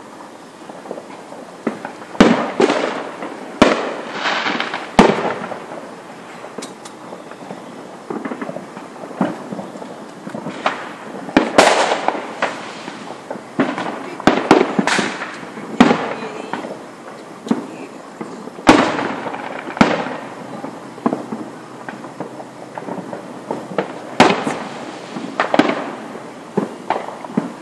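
Aerial fireworks shells bursting with a rapid series of sharp bangs, coming in clusters of several at a time with short lulls between.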